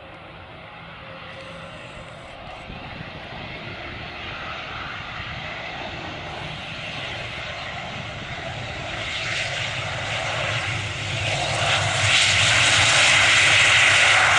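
Fokker 50 twin-turboprop airliner's engines and propellers, growing steadily louder as the aircraft nears and loudest from about twelve seconds in.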